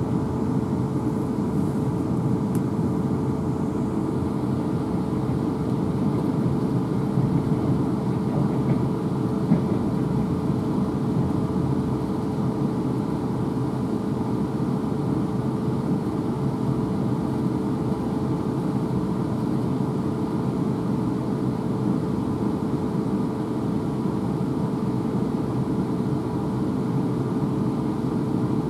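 Interior noise of a Class 450 Desiro electric multiple unit on the move: a steady rumble of wheels on the rails, with a steady hum on top.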